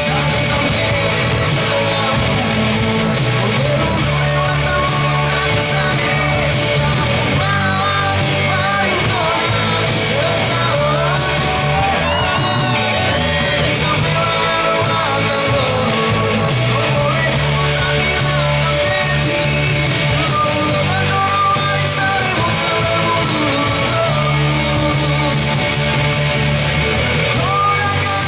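Live band playing a rock-style song with a steady drum beat, electric guitar and a singing voice.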